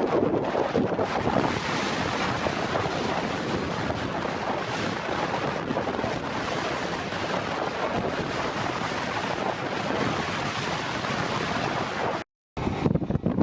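Strong blizzard wind blowing across the microphone, a steady loud rushing noise. It breaks off for a moment near the end, then resumes.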